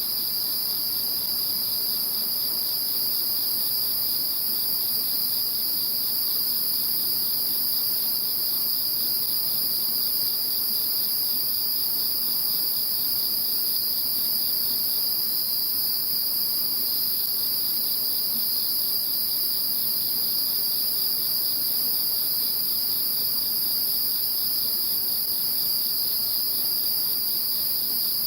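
Steady chorus of calling insects in two high-pitched layers. A rapidly pulsing trill in the lower layer drops out about halfway through and comes back near the end.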